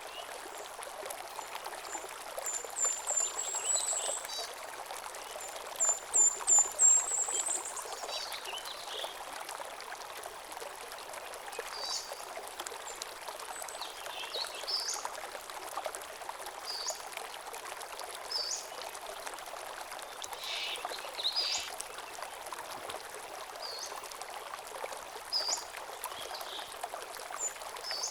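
Small garden stream running steadily over stones. Songbirds singing over it: two high, rapid series of notes in the first eight seconds, the second the loudest, then short chirps every second or two.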